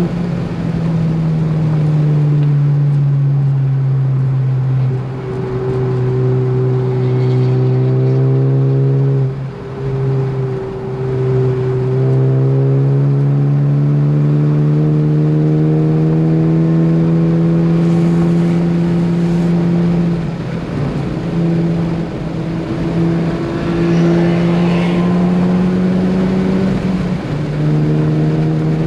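Ford Focus ST engine pulling hard on track, its pitch climbing slowly through long stretches, with a few brief dips in pitch and loudness along the way.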